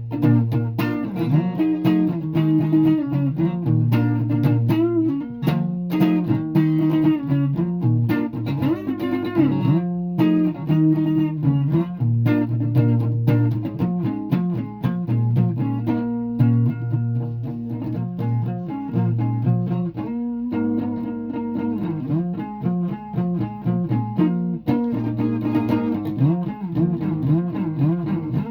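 A guitar being played: a continuous run of plucked notes and chords that change every second or so, over strong low notes.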